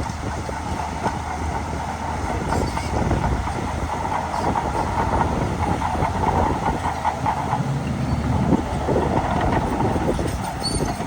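Shantui DH17C2 Pro crawler bulldozer working under load: the diesel engine rumbles steadily while the steel tracks keep up a dense, continuous clanking.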